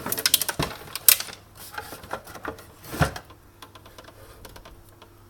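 Rapid clicks and knocks of the espresso machine's plastic and metal parts being handled and pried during disassembly, dense for about three seconds with the loudest knocks about a second in and near three seconds, then thinning to a few faint ticks.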